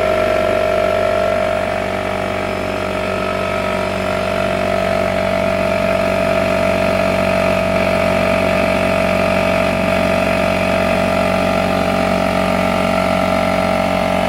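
Craftsman 6-gallon air compressor running steadily, its motor and pump filling the tank after being switched on.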